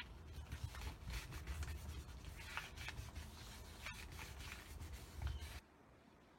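Paint being rubbed and spread onto a gel printing plate: a soft scratchy rubbing with small clicks, which stops suddenly near the end.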